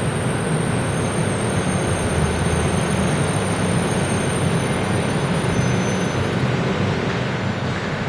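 Sm4 electric commuter train running into the station: a steady, loud running noise of wheels on track, with a thin high whine above it.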